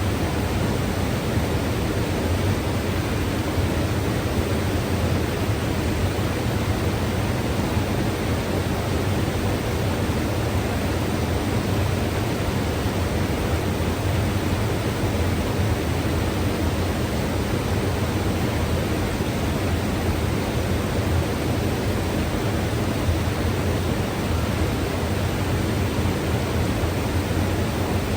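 Mountain river rushing over rocks, a steady full rush of water with a deep low rumble.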